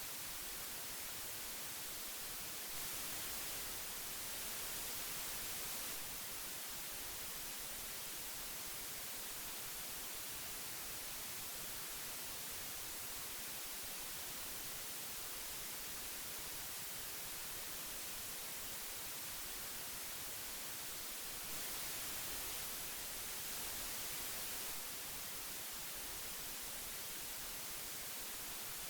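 Old audio tape hiss: a steady, even hiss strongest in the high end. It swells slightly louder for a few seconds twice, about three seconds in and again about twenty-two seconds in.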